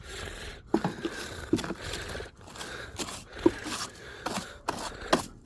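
Irregular scraping strokes as wet, caked grass clippings are scraped off a lawnmower by hand.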